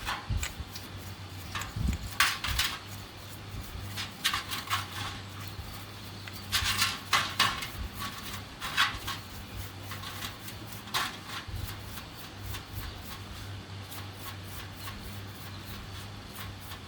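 Irregular clinks, taps and scrapes of metal tools and parts being handled, in scattered clusters over a steady low hum.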